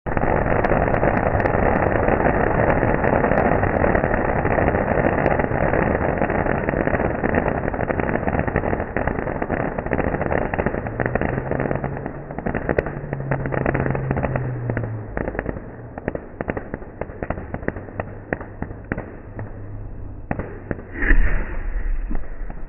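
Firecrackers going off in a rapid, dense crackling barrage that gradually thins to scattered separate bangs, with one louder blast near the end.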